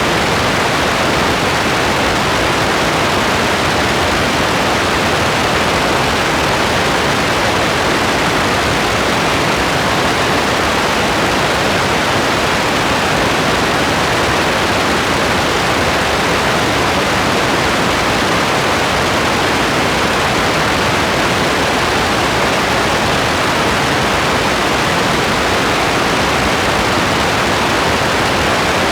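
Steady, dense rain: an even, unbroken hiss with no single drops standing out.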